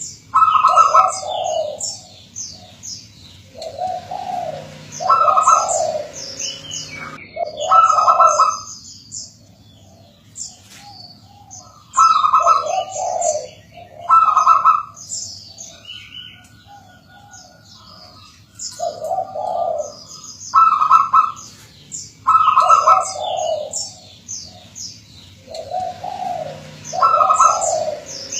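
Zebra doves (perkutut) cooing in repeated phrases, about eight in all, with quieter gaps between them. Many short high chirps from other small birds run over and between the coos.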